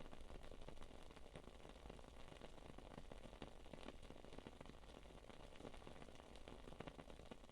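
Faint, continuous crackling of a wood wick candle flame: many small irregular pops and ticks.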